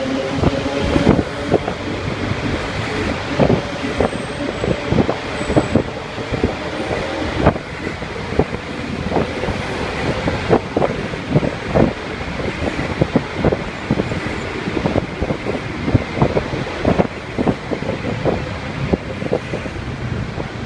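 Road traffic noise from cars and heavier vehicles, with many short, irregular knocks through it.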